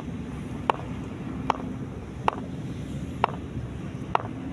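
Steady low hum over background noise, with a sharp click about once a second, five in all.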